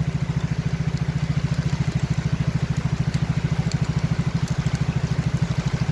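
Motorcycle engine running at low revs with a steady, even beat of about twelve pulses a second.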